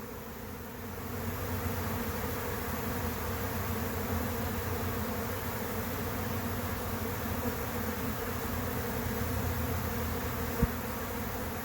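A large honey bee swarm in flight: a steady, dense buzzing hum from the mass of bees leaving the hive and circling in the air, growing a little louder about a second in. A short low bump near the end.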